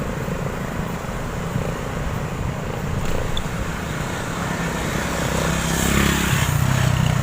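Road traffic heard from a bicycle: motor vehicles running close by, a steady engine rumble that grows louder near the end as a vehicle draws near.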